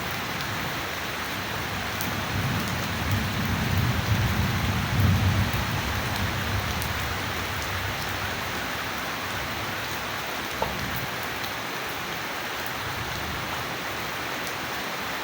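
Steady heavy rain falling, with a roll of thunder that builds about two seconds in, is loudest around five seconds, and rumbles away by about seven seconds.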